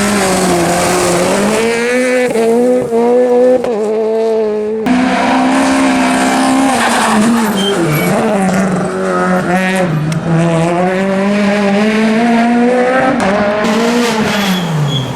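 R2B-class rally car's naturally aspirated four-cylinder engine revving hard at high rpm, the pitch dropping and climbing again with each gear change, then falling away near the end.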